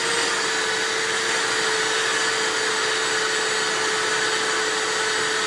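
Shop vac running steadily, a constant whine over a rush of air, while vacuuming out a truck's interior.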